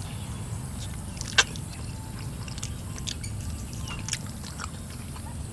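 People chewing pieces of stir-fried eel, with a few short sharp smacks or clicks, the loudest about a second and a half in, over a low steady background hum.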